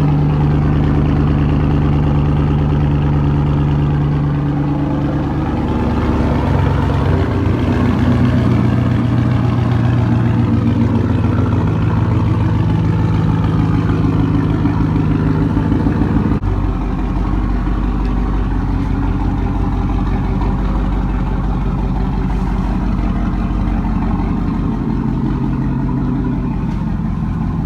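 Truck engine running, its pitch shifting a few times as it is revved, with a sudden change about sixteen seconds in.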